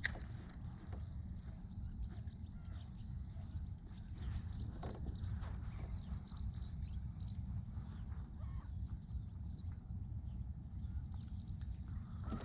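Small birds chirping and singing in quick short notes over a steady low rumble.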